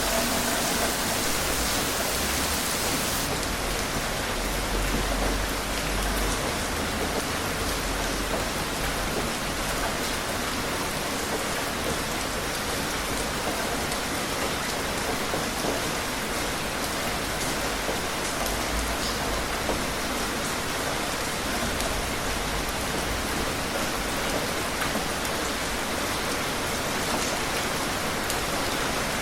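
Steady heavy rain falling, a dense even hiss with no let-up; the highest part of the hiss drops away about three seconds in.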